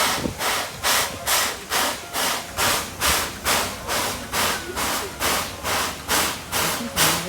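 Tobu Railway C11-class steam locomotive chuffing: its exhaust beats come in a steady, even rhythm of about two to three a second as it moves at slow speed.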